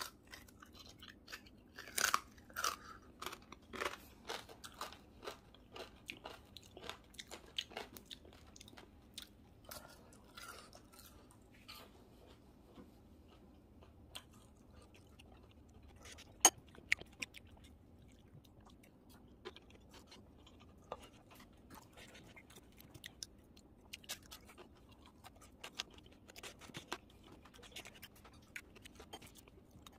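Crunching and chewing of crispy deep-fried pork belly skin being eaten: many short, sharp crunches, thickest in the first several seconds, with one especially loud crunch about halfway through.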